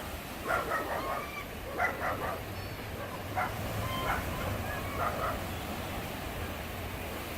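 A dog barking in short yips, several times over the first five seconds, over the steady rush of sea waves.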